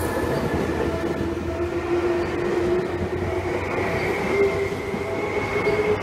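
Electric commuter train rolling slowly past close by: a steady rumble of wheels on rail, with a thin whine that rises slightly in pitch about halfway through.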